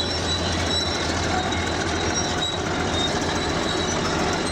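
Crawler bulldozer at work: a steady low diesel engine drone with short high squeaks over it, typical of steel tracks running.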